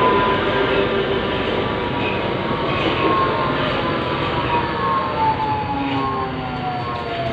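Metro train running in the tunnel, a steady rumble with the electric motors' whine slowly falling in pitch as the train slows.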